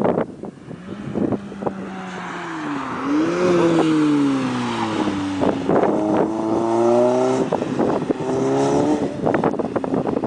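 Lotus Elise's four-cylinder engine passing at track speed: its note dips, picks up about three seconds in, then falls steadily as the car goes by and away. Gusts of wind buffet the microphone throughout.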